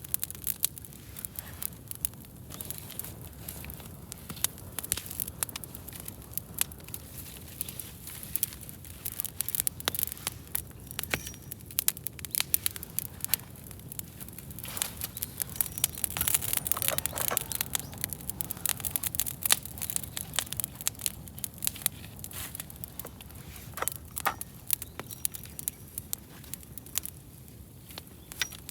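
Wood fire crackling, with frequent irregular pops and snaps that grow busier and louder about halfway through.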